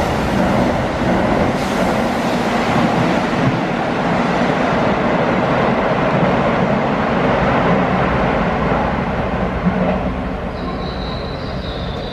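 Keihan 3000-series commuter train running through a station without stopping: a steady loud rush of wheels on rail that eases off after about ten seconds, with a high squeal coming in near the end.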